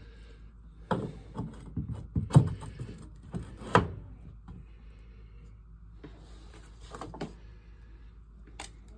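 A series of knocks and clunks, loudest about two and a half and four seconds in, with a few more near the end, over a faint steady low hum.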